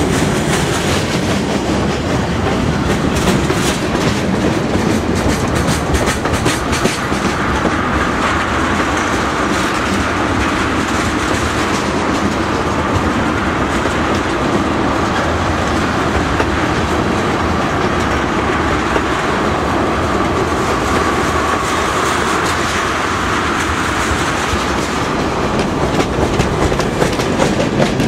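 CSX freight train's cars (boxcars, tank cars and open-top hoppers) rolling past close by: a steady, loud rumble of steel wheels on rail, with clickety-clack over the rail joints that is sharpest in the first several seconds.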